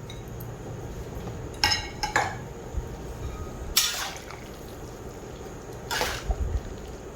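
A cooking utensil clatters against the pan about four times as noodles and bean sprouts are turned in boiling gravy, over a steady wet bubbling.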